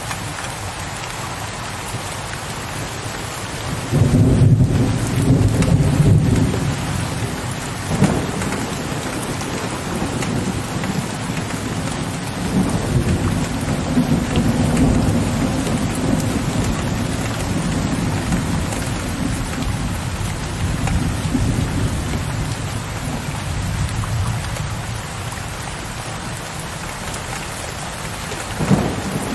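Steady rain with low thunder. A loud rumble starts about four seconds in and lasts a couple of seconds, and a short clap comes near eight seconds. A longer rolling rumble runs through the middle, and one more brief rumble comes near the end.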